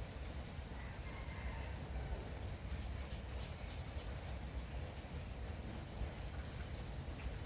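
Light rain falling steadily, with a few faint, short bird chirps and squeaks over it.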